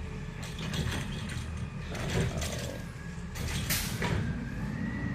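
Garbage truck running with a steady low rumble while its mechanism works, giving repeated metallic clanks and creaks, with a faint rising-and-falling squeal near the end.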